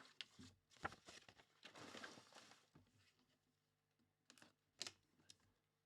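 Faint handling of a mini-helmet's packaging as it is pried open: a few sharp clicks and taps, with a soft rustle of plastic and cardboard about two seconds in.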